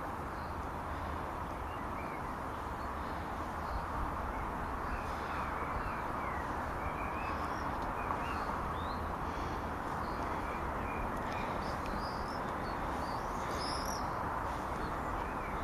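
Small birds chirping in short, scattered calls over a steady outdoor background hiss with a low wind rumble on the microphone.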